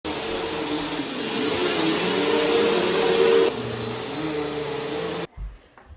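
Loud, steady machine noise, like a small motor running, with a held hum. It cuts off suddenly about five seconds in.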